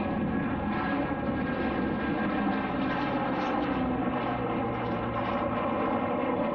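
Aircraft engine running: a steady drone with several tones in it that drift slowly in pitch.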